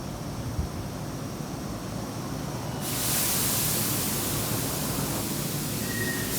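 Hanshin 8000-series electric train at the platform: a steady low rumble, then about three seconds in a sudden loud hiss that holds steady to the end.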